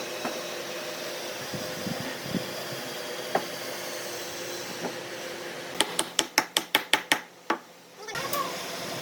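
A quick run of about eight sharp hammer taps, about six a second, a little past halfway, with a few single knocks earlier, over a steady hum.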